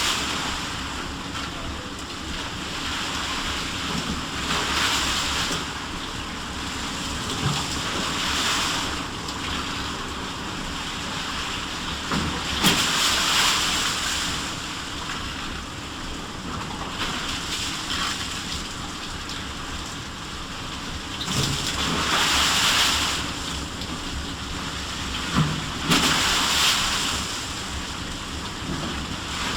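Sea waves surging and washing in every few seconds over a steady low rumble of wind, with a few short sharp knocks.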